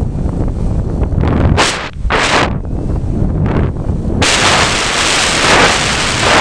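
Strong gusty wind buffeting the microphone: a constant low rumble with loud hissing gusts, several short ones and then a longer one from about four seconds in.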